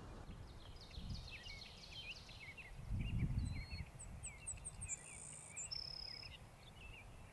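Songbirds chirping and singing, many short high notes overlapping, with one longer steady whistled note about six seconds in. Under them a low rumble swells twice.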